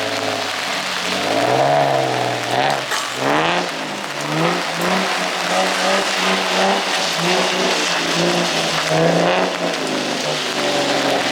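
Car engine revving up and down again and again as the car drifts on a wet track, its pitch rising and falling every second or so over a steady hiss.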